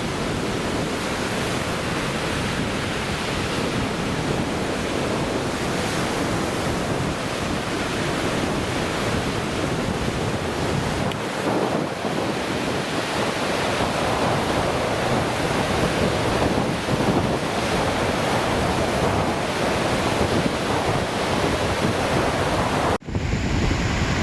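Lake Michigan waves washing onto the shore in a steady rush, with wind buffeting the microphone. The sound dips out abruptly for a moment near the end.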